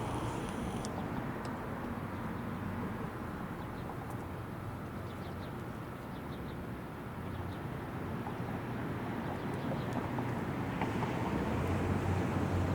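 Outdoor background noise: a steady low rumble, growing a little louder near the end, with a few faint short high chirps around the middle.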